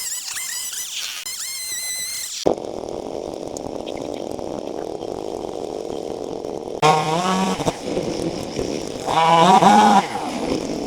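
Chainsaw running, revving up and down in repeated bursts in the second half. The sound changes abruptly a couple of times.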